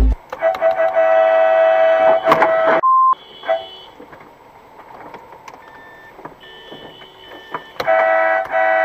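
A car horn sounding in long, steady blasts: one of a couple of seconds, then a second one near the end, with a short single beep just after the first.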